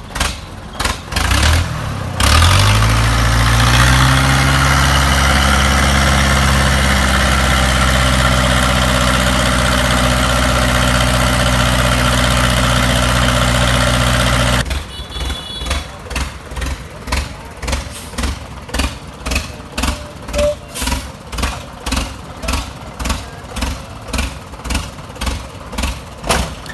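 An excavator engine starts, its pitch rising as it catches, then runs steadily before cutting off abruptly. After that comes a regular thudding about twice a second.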